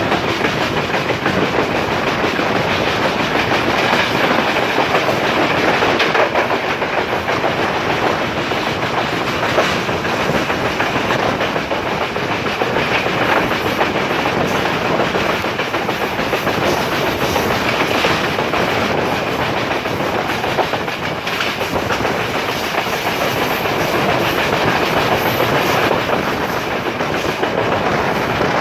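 Passenger train running at speed, heard from on board: steady, loud rumble of wheels on rail with the clatter of rail joints throughout.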